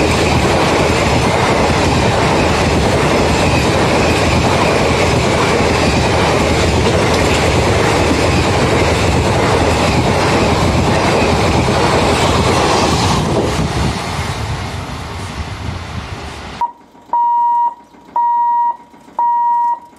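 Passenger train coaches running past at speed over a level crossing, a loud steady rumble of wheels on rail that fades as the last coaches go by. After an abrupt cut near the end, an electronic warning buzzer beeps about once a second.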